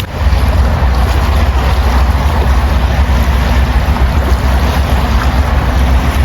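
Wind buffeting the microphone: a loud, steady rumble with an even hiss above it.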